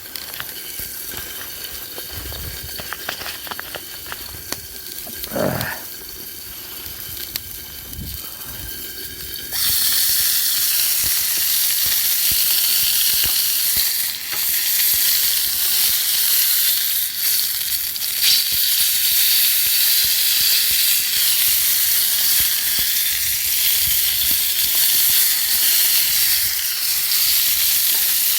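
Food goes into a hot pan about ten seconds in and starts sizzling loudly, then fries steadily. Before that there are only light clicks and knocks.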